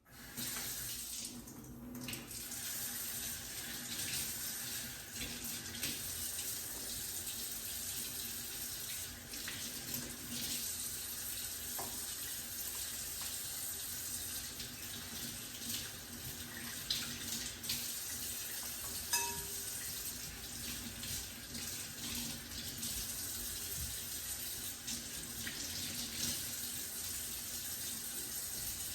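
Kitchen tap running steadily into a sink while raw chicken pieces are rinsed under the stream, with a few small knocks and clicks from handling.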